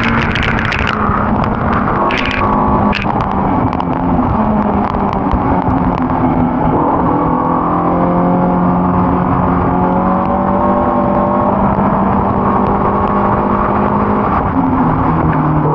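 Ford Cortina race car's engine running hard under load, its pitch holding mostly steady with brief shifts about a second in and near the end, and a few sharp clicks in the first few seconds.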